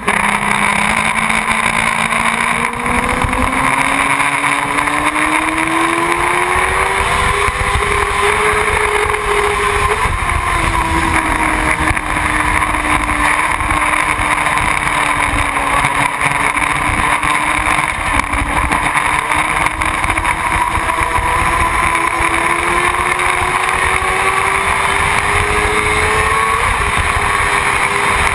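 Motorcycle engine running under way, its pitch slowly rising and falling with engine speed and dropping suddenly about ten seconds in, over steady wind rush.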